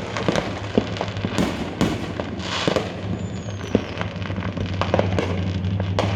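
Fireworks going off in a rapid, irregular string of sharp pops and bangs. There is crackling hiss and a brief falling whistle about three seconds in, over a steady low hum.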